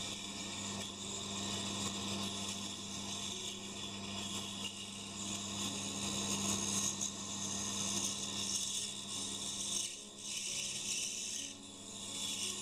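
Pégas scroll band saw running with a steady hum while its blade cuts through a thick block of wood. The cutting noise eases briefly twice near the end.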